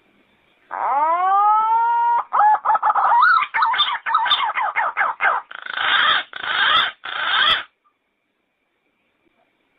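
Yellow-footed green pigeon singing: one long whistled note rising in pitch, then a quick run of short wavering notes and three broader, harsher notes, stopping a couple of seconds before the end.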